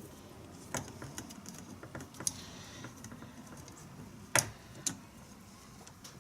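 Scattered light clicks and taps of small metal parts and tools being handled while an animatronic head mechanism is taken apart. The two loudest clicks come about half a second apart, some two-thirds of the way through.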